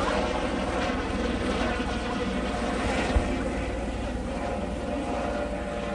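Air ambulance helicopter running with a steady rotor and turbine noise, with a brief thump about three seconds in.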